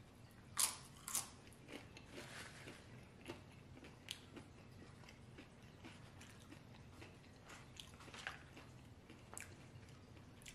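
Crunching bite into a tortilla chip scooped with guacamole: two sharp crunches about half a second and a second in, then softer chewing with scattered faint crunches.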